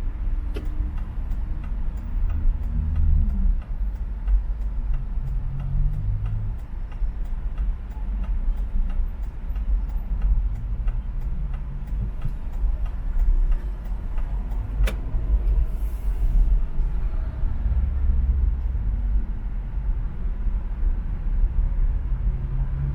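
A car driving along an expressway: a steady low rumble of road and engine, with the engine note shifting a little. Faint, regular ticking runs through the first half, and there is a single sharp click about fifteen seconds in.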